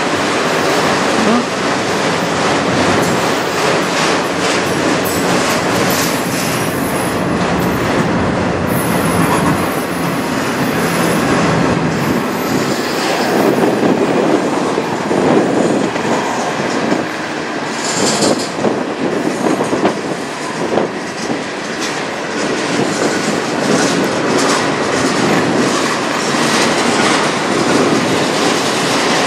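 Freight train of autorack and centerbeam flatcars rolling past: a steady rumble with the clack of wheels over the rail joints. A high, thin wheel squeal runs for several seconds, starting about six seconds in.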